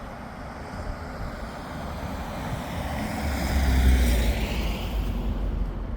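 A road vehicle passing by, growing louder to a peak about four seconds in and then fading.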